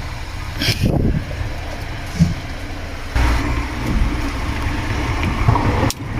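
A motor vehicle engine running steadily, a low rumble, with a few short clicks over it.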